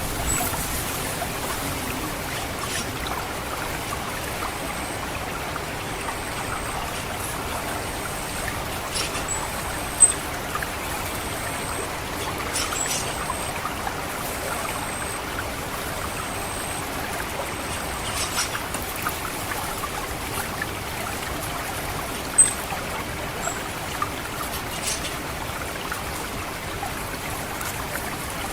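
Water trickling steadily through a rice paddy, with thin, very high-pitched call notes of an orange-headed thrush (anis merah 'ngecit' call) repeating at even intervals for a stretch, then as single short chirps now and then.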